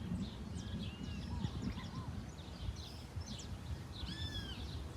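Several wild birds chirping and calling from the surroundings of a rural pond, with a clearer arching call about four seconds in, over a steady low rumble.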